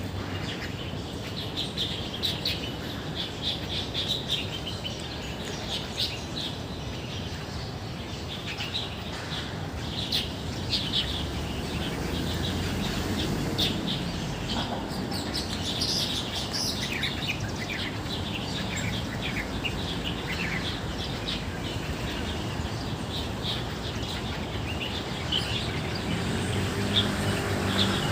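Many small birds chirping and calling, short high chirps overlapping one another all through, over a steady low background hum.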